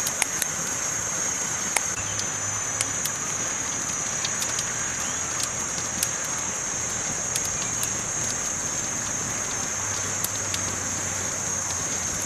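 Campfire crackling: a steady hiss of burning wood with irregular sharp pops and snaps, over a steady high-pitched hiss.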